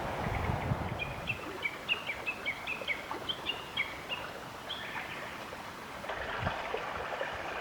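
A small bird singing a quick series of short, high chirps for a few seconds, over a steady outdoor hiss of wind and water.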